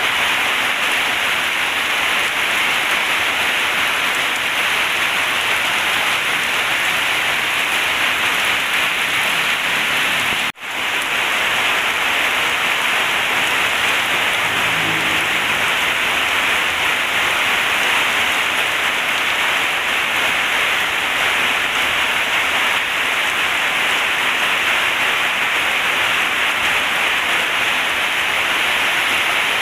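Heavy rain pouring steadily as an even hiss, cutting out for a split second about ten seconds in.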